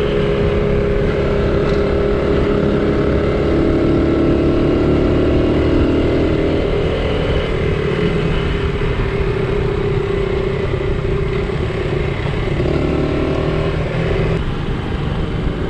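Small vintage Honda motorcycle engine running under way, its note rising and falling as the bike changes speed.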